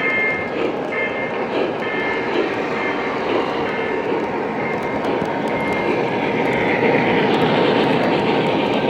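Model train running along a layout's track: a steady rolling rumble with short high-pitched squeals, growing louder about seven seconds in.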